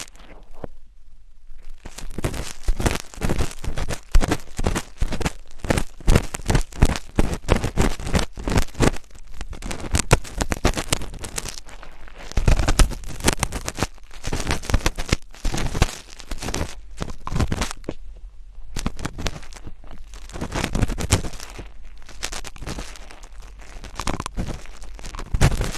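Close-miked ASMR scratching and crackling: a dense run of rapid crackles and scratches with a few short pauses.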